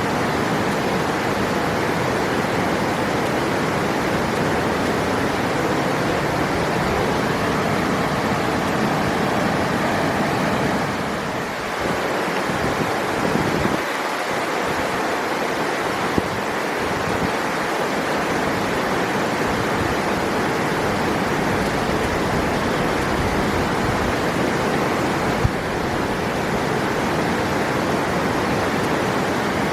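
River water rushing steadily, an even, dense wash of flowing water that dips briefly about eleven seconds in.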